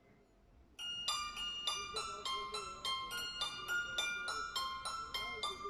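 Santoor (hammered dulcimer) playing: a quick, even run of struck notes, about four a second, each ringing on, starting about a second in after a moment of near quiet.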